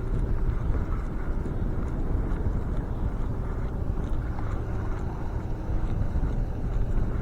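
Steady low rumble of wind buffeting the microphone outdoors, with no clear pitch and no distinct events.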